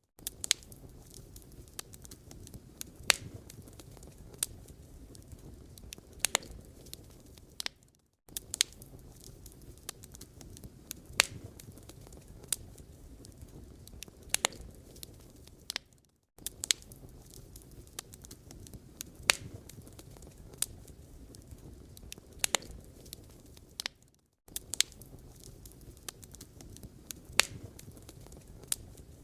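Wood fire crackling in a fireplace: a low, steady rumble of flames with irregular sharp pops and snaps of burning logs. The sound cuts out for a moment about every eight seconds, where a short recording loops.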